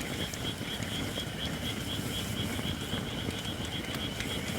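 Campfire of Japanese white oak logs burning, with a dense low crackle and scattered sharp pops; the firewood is not yet fully dry. A high chirping call repeats steadily about four times a second behind it.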